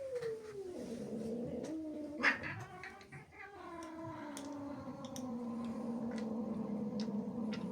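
Angry domestic cat caterwauling: a drawn-out yowl that slides down in pitch, breaks with a short sharp burst about two seconds in, then settles into a long, low, steady growling yowl. This is the threatening cry of a cat warning off rivals from her territory.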